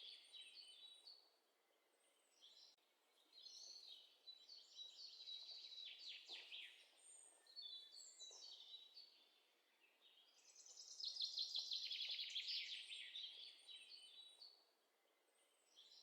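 Faint birdsong: small birds chirping and trilling in about three bouts of a few seconds, with quiet gaps between.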